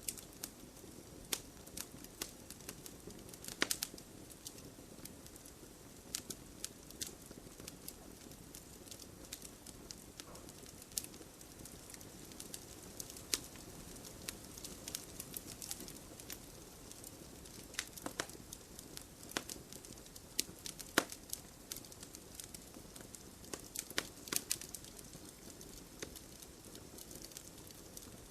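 Wood fire burning with a steady soft hiss and frequent irregular crackles and sharp pops.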